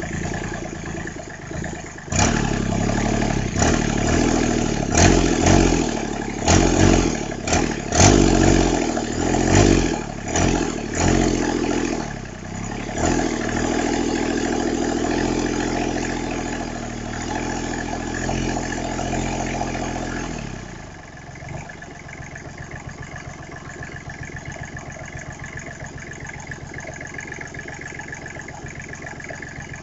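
Small Briggs & Stratton diesel engine running, revved up and down in a series of bursts, then held at a higher speed. About twenty seconds in it drops back to an even, steadily pulsing idle.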